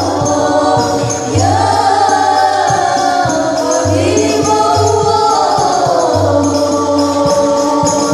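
Group of voices singing an Islamic sholawat in unison, with long gliding melodic phrases over steady hand-percussion accompaniment with jingles.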